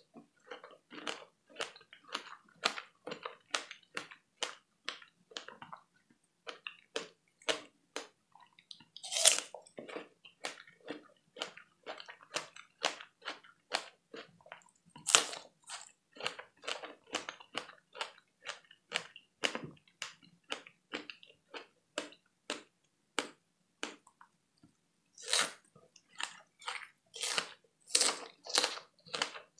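Close-miked biting and chewing of fresh strawberries: wet mouth sounds in a steady run of about two chews a second, with louder bites into the fruit about 9 and 15 seconds in and several more near the end.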